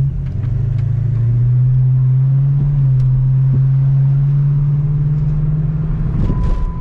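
2006 Dodge Charger R/T's 5.7 HEMI V8 running steadily while driving, its pitch stepping up slightly about a second in and then holding. The engine is overheating, which the owner puts down to the radiator cooling fan not coming on.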